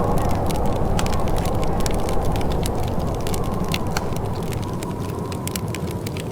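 Wood fire crackling: frequent sharp pops and snaps over a low, steady rumble.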